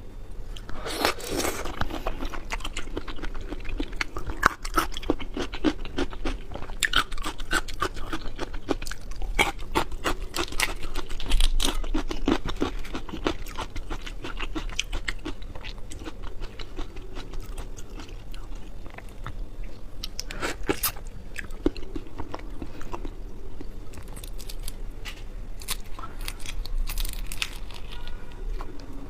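Close-miked chewing of raw shrimp: wet crunching, biting and smacking clicks, irregular and continuous, as the shells and flesh are bitten and chewed.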